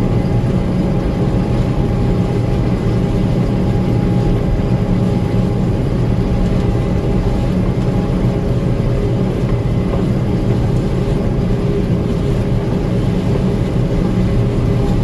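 Gleaner M2 combine running steadily: a continuous engine and machinery drone with a constant hum.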